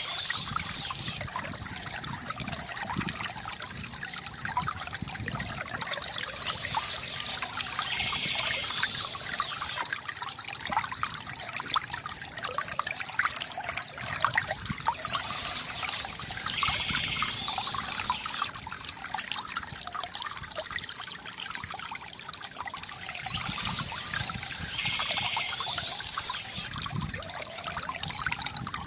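Small stream trickling and splashing steadily over stones, with birds singing in short bursts, four times, about every eight seconds.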